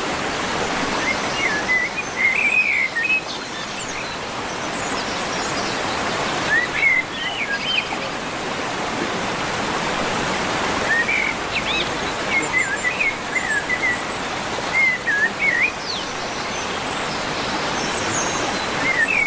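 Small birds chirping in short bursts of quick, bending notes, over a steady rushing hiss like running water.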